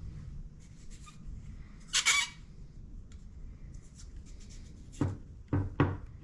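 Workshop handling sounds from tools and parts during motorcycle rear suspension work: a short hiss about two seconds in, then three dull knocks near the end.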